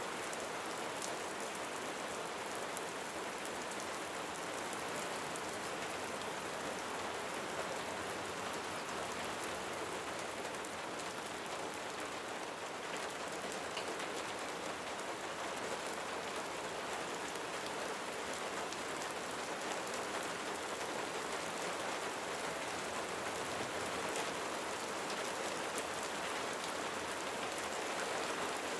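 Steady rain falling on a roof, an even hiss with scattered individual drop ticks and no thunder.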